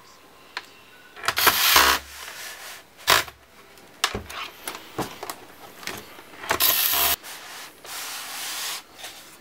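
Small electric screwdriver running in several short bursts, driving screws into a plastic laptop case, with clicks and rattles of parts being handled between runs.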